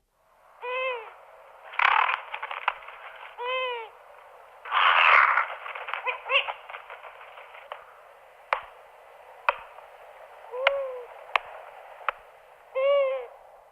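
A bird calling: short arched notes, each rising and falling in pitch, about five times at irregular gaps, over a steady hiss of the field recording. Louder rustling noise comes twice, near 2 s and 5 s in, and a few sharp clicks follow later.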